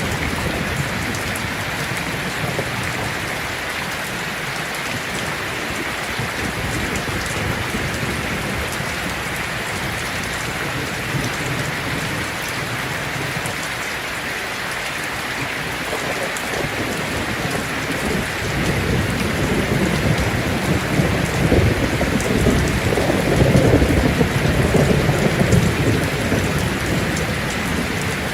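Heavy rain drumming steadily on a tin roof. In the second half a low rumble of thunder swells, loudest a few seconds before the end, then eases off.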